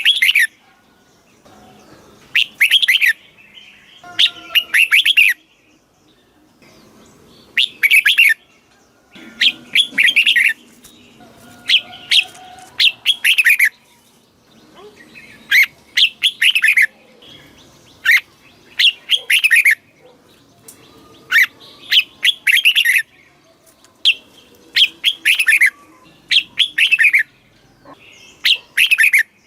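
Red-whiskered bulbul singing: short, bright phrases of quick whistled notes, repeated every one to two seconds with brief pauses between.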